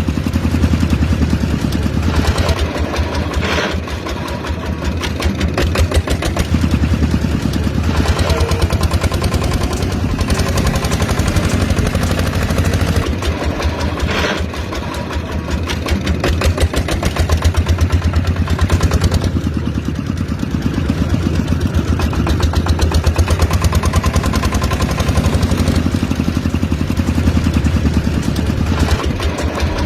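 Mini diesel engine running with a rapid, even firing beat, its loudness swelling and easing every few seconds.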